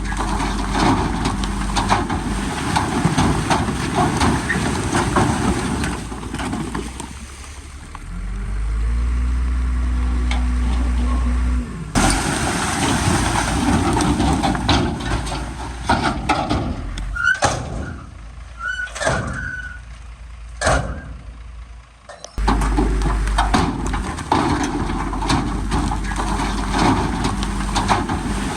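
Heavy earthmoving machinery at work: bulldozer and dump truck diesel engines running, with knocks and a few short high squeals partway through. The sound changes abruptly several times as the shots cut.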